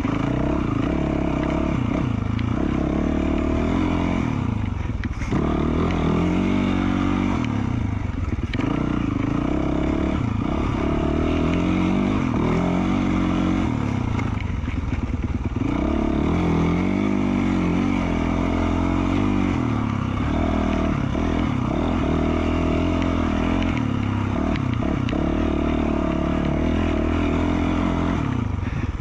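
2020 Yamaha YZ450F single-cylinder four-stroke dirt bike engine with an FMF Q4 slip-on exhaust, ridden along a trail, its pitch rising and falling again and again as the throttle is opened and closed.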